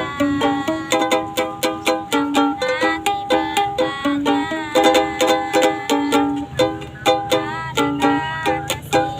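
A woman singing a song with a quickly strummed plucked-string accompaniment, a street busker's performance.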